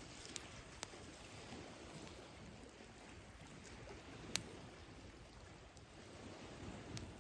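Gentle sea waves washing on the shore, with a campfire crackling over them in a few sharp pops, the loudest about four seconds in.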